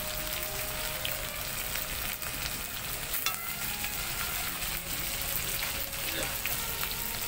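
Small bitter fish and frog meat frying in hot oil in a steel karahi over a wood fire, a steady sizzle with a few faint clicks.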